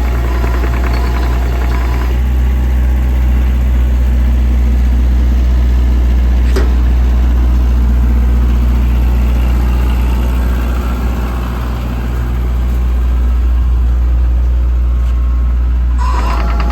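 Diesel engine of a 2019 JCB 65R-1 midi excavator running steadily with a deep, even hum. There is a single sharp click about six and a half seconds in.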